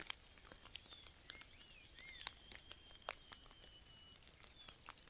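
Faint wild birdsong: several small birds chirping, with quick high notes, a few short arched whistles and one thin held whistle, plus scattered light clicks.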